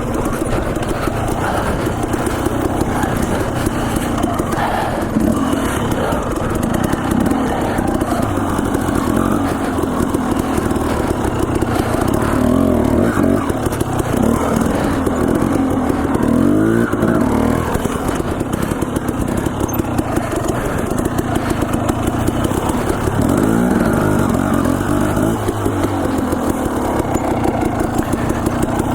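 Dirt bike engine running loud and steady on a trail ride, its pitch rising and falling again and again as the throttle opens and closes.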